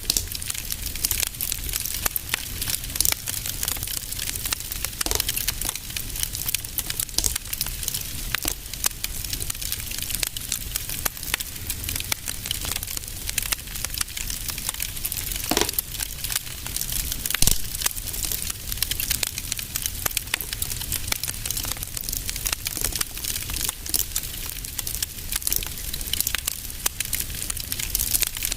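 Wood fire in a fireplace crackling steadily with a dense run of small pops and snaps, a couple of louder pops about halfway through, over a low steady rumble of the flames.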